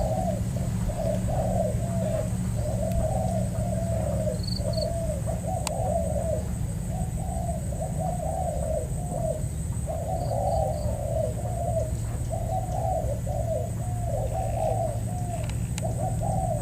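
Spotted doves cooing over and over in quick, unbroken phrases, the bow-coo of a decoy dove and a wild dove calling at each other. A small bird chirps briefly a few times, over a steady low hum.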